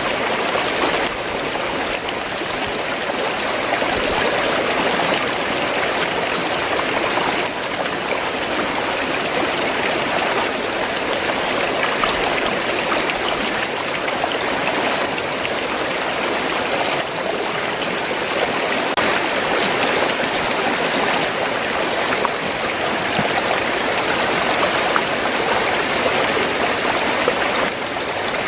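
Fast-flowing stream water rushing and gurgling steadily.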